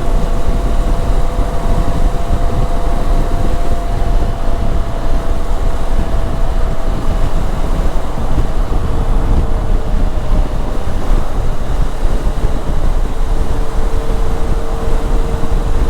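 Honda NX500 motorcycle riding at road speed: heavy wind rumble on the microphone over the steady drone of its parallel-twin engine, which holds a constant pitch throughout.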